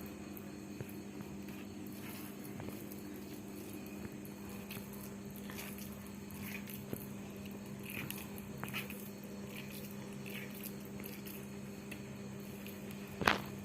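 Soft, faint squishing and small clicks of hands rolling moist minced chicken filling into balls, over a steady low hum. A sharper knock comes near the end.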